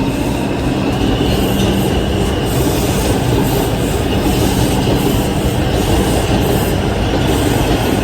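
Subway train running on steel rails: a steady loud rumble of wheels, with a thin high wheel squeal held over it throughout.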